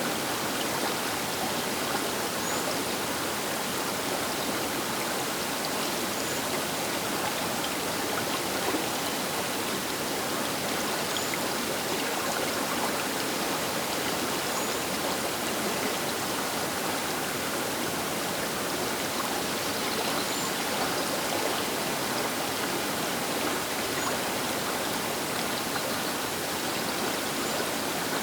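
Baker River flowing, a steady, even rush of water that does not change.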